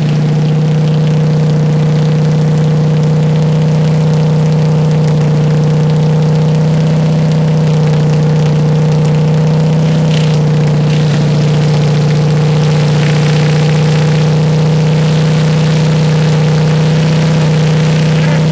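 Worn-out Kohler KT17 twin-cylinder engine of a Simplicity 7117 garden tractor running at a steady speed, its note holding constant.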